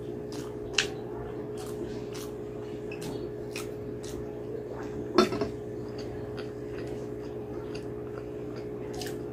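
Close-up eating sounds: chewing a mouthful of mutton curry and rice, with small wet mouth clicks, and fingers working in the rice. A steady low hum runs underneath, with a sharp click about a second in and a louder knock about five seconds in.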